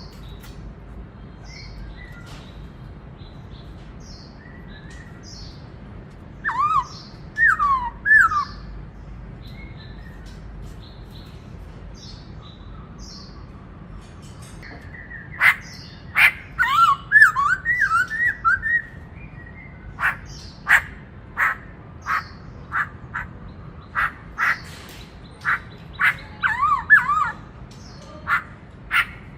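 Black-throated laughingthrush (khướu bạc má) singing: a few loud looping whistles about a third of the way in, then from about halfway a rapid, busy run of sharp calls and looping whistled phrases.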